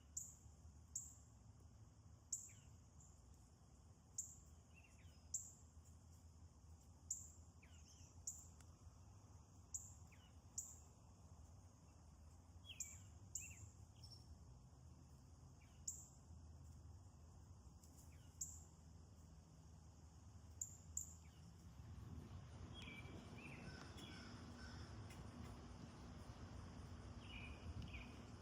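Faint garden ambience of birds calling: a short, high chirp repeats about once a second, with scattered lower notes. About two-thirds of the way through, the background noise rises and a different set of quick chirping calls comes in.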